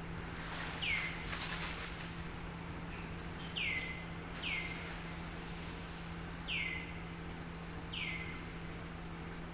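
A bird calling five times, each call a short falling whistle, spaced one to two seconds apart. A short burst of noise comes in the first two seconds, over a steady low hum.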